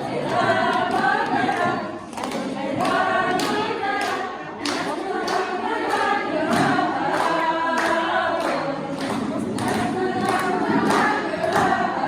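A group of people singing together in chorus, with a steady beat of sharp hits keeping time.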